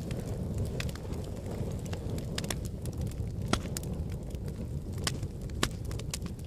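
Fire burning in a fireplace: a steady low rumble of flames with scattered sharp crackles and pops, a few of them louder, from about halfway through.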